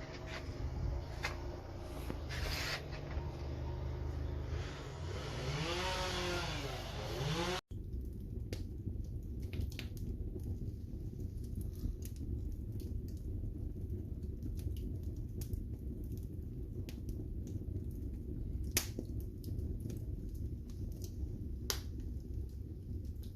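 Wood fire in a fireplace crackling over a steady low rumble, with scattered sharp pops and two louder snaps near the end. An abrupt cut about a third of the way in is preceded by a rising-and-falling whine.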